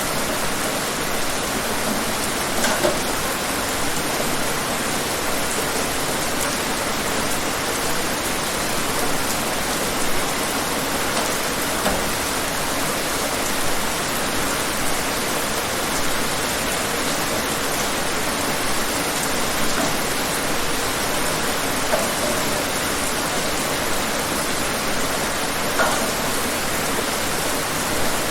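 Steady rain falling, an even hiss of drops with a few louder individual drops standing out now and then.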